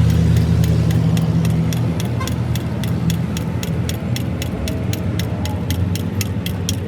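A vehicle engine running steadily, with a quick, regular ticking over it at about four or five ticks a second.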